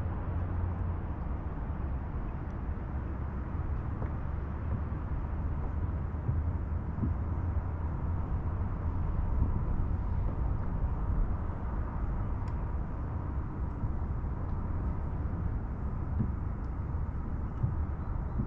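Wind rumbling steadily on the microphone, with a few faint ticks.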